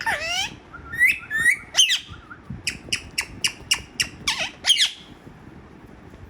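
Parrot squawking: a few sharp calls that bend in pitch, then a fast run of short, sharp squawks, about four a second, stopping about five seconds in.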